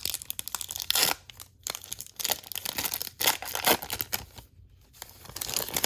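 Trading card pack wrapper being torn open and crinkled by hand, in a string of irregular rustles and rips.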